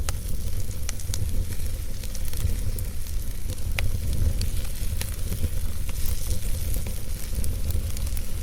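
Wood fire burning in a fireplace: a steady low drone with a constant hiss, broken by many scattered sharp crackles and pops.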